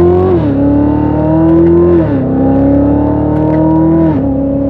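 Chevrolet C7 Corvette's 6.2L V8 through an MBRP axle-back exhaust with its valves open in track mode, accelerating hard from inside the cabin. The engine note climbs through each gear and drops three times at quick upshifts.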